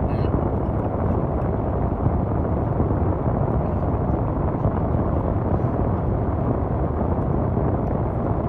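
A car's air conditioning blowing steadily inside the cabin, a constant rushing noise.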